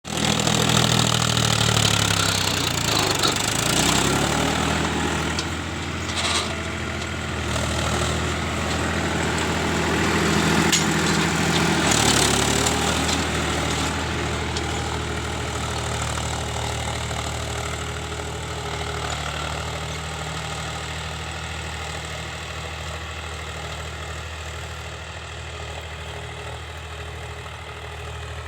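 Powertrac Euro 50 tractor's diesel engine running steadily. Its note shifts about two to four seconds in and again around twelve seconds, then the sound slowly fades.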